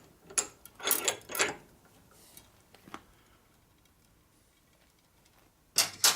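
Metal clinks and knocks from a steel brake line and tee being handled and set in a bench vise. There are a few sharp knocks in the first second and a half and a faint tick around three seconds, then two louder clanks near the end.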